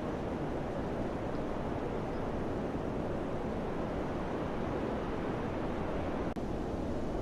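Summer wind blowing steadily, a continuous rushing noise with no distinct events, briefly dipping for an instant about six seconds in.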